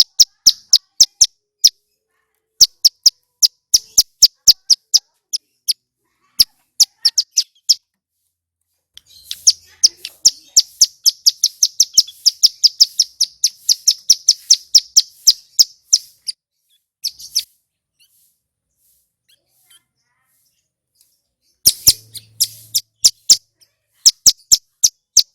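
Ciblek gunung (mountain prinia) singing: a series of sharp, high chip notes about three a second. A long, fast run of about six notes a second follows through the middle. After a pause of a few seconds, quick bursts of notes return near the end.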